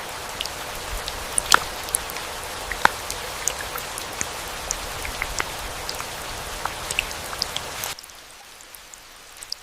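Rain falling, an even hiss with many separate drops striking close by. About eight seconds in the hiss drops sharply, leaving a few scattered drop hits.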